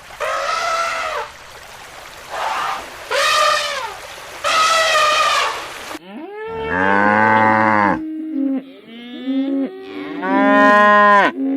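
Farm animals calling. Four short, higher-pitched calls come first. After an abrupt cut about halfway through, cows moo in deeper, longer calls that overlap one another.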